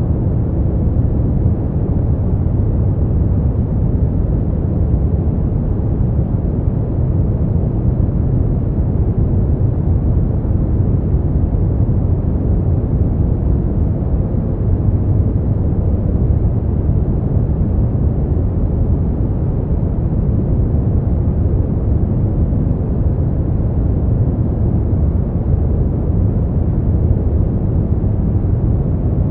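Steady brown noise: an even, deep rushing hiss with its weight in the low end, unchanging throughout.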